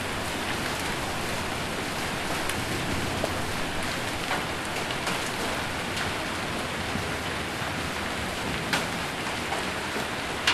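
Hail and rain falling on a metal roof: a steady hiss of rain with a few sharp ticks of single stones striking scattered through it.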